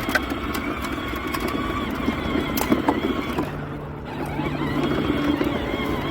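Battery-powered ride-on toy tractor's small electric motor whirring as it drives, with scattered clicks and knocks from the wheels and body. The motor sound dips briefly a little past halfway, then picks up again.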